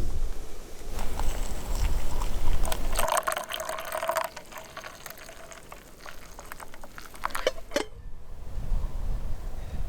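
Liquid being poured into a container for about a second, with small clicks and knocks around it, after a low rumble in the first few seconds.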